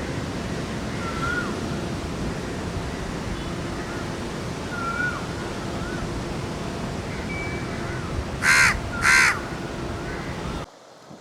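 Two loud crow caws, about two-thirds of a second apart, near the end, over the steady hiss of heavy rain, with other birds giving short whistled calls now and then. The sound cuts off abruptly just before the end.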